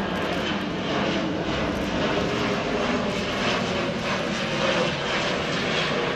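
Airbus A400M Atlas in flight, its four turboprop engines and propellers giving a steady, loud drone that wavers slightly in strength.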